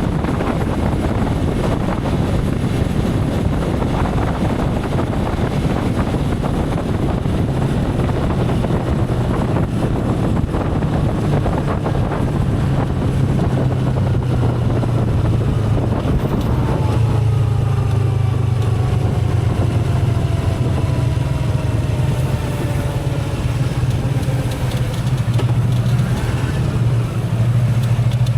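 Motorcycle riding at a steady speed: the engine drones evenly under a rush of wind and road noise. Past halfway a faint whine slowly falls in pitch.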